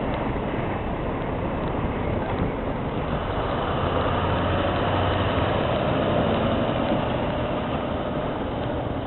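Scania R620 truck's V8 diesel engine running steadily, growing a little louder toward the middle and easing off near the end.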